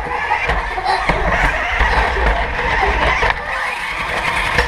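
Remote control car driving, a steady noisy whir with scrabbling and skidding of its wheels, over a low rumble.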